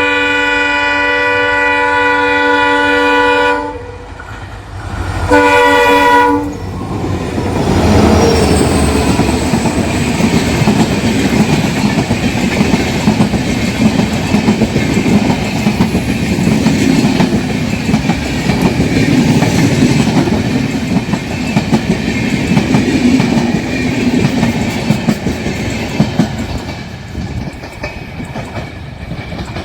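Indian Railways locomotive horn sounding one long blast of about three and a half seconds, then a short blast a couple of seconds later. An express train of LHB coaches then passes at speed, a steady rumble with rapid clickety-clack of wheels over the rail joints, easing off near the end.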